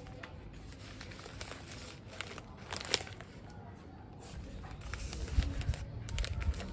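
Plastic wrapping and snack packets crinkling and rustling as they are handled, with scattered small clicks and some low handling bumps toward the end.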